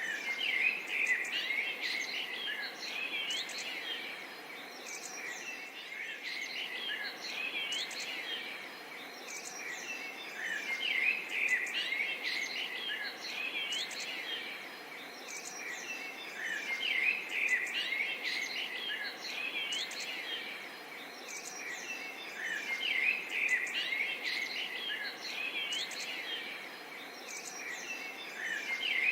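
A chorus of songbirds chirping and whistling over one another, swelling in bouts every five or six seconds, over a steady background of crickets and insects in a forest-swamp ambience.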